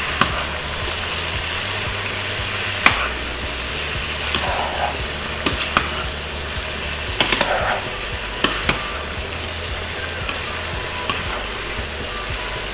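Pork belly and shrimp paste sizzling steadily in a pot as they are stirred with a spoon, which knocks and scrapes against the pot now and then.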